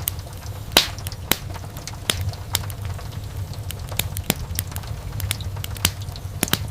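Wood fire crackling in a fireplace: irregular sharp pops and snaps of burning wood over a steady low rumble of flame, with one louder pop a little under a second in.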